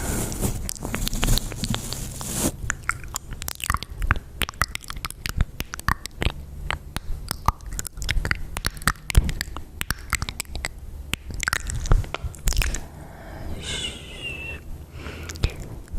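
Close-miked ASMR mouth sounds: rapid wet clicks and smacks, with a soft brushing hiss in the first couple of seconds.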